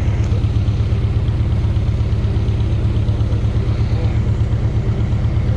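Engine running steadily at a low pitch with a regular throb.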